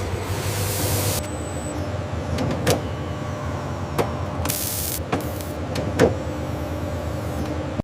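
Machinery running with a steady hum, cut by a handful of sharp mechanical clicks and knocks at uneven intervals. A hiss of spray or air stops about a second in, and a brief hiss comes back near the middle.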